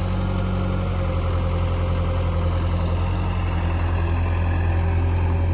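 Heavy diesel engine idling steadily, a deep, even hum.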